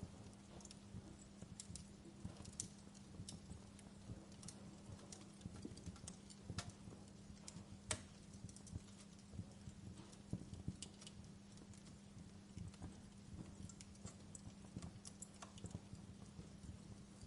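Wood fire crackling in a fireplace: irregular small pops and snaps, a few louder ones around six and a half and eight seconds in, over a steady low hum.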